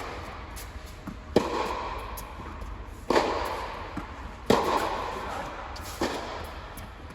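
Tennis rally: a ball is struck hard by racquets three times, about one and a half seconds apart, with fainter knocks of bounces or far-side hits between. Each hit echoes with a long tail.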